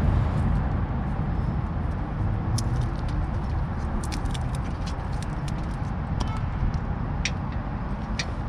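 A steady low rumble with scattered light clicks and taps throughout.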